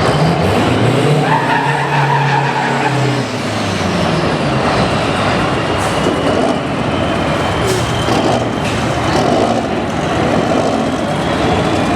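Heavy truck engine running loud and steady, with a faint high whine throughout and a brief higher tone between about one and three seconds in.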